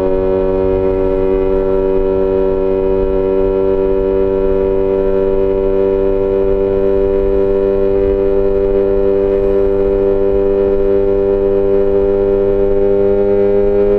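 Yamaha XJ6 S inline-four engine through an SC-Project aftermarket exhaust, held at steady revs under way, its pitch creeping slowly upward as the bike gently gains speed.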